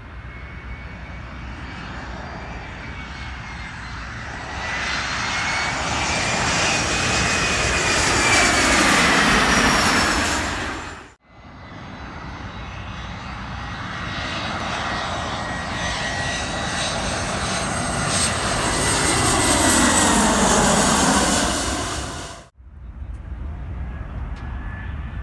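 Two airliners in turn passing low overhead, each building in loudness while its engine whine falls steeply in pitch as it goes over. Each pass cuts off abruptly, about eleven seconds in and again near the end, leaving quieter background noise.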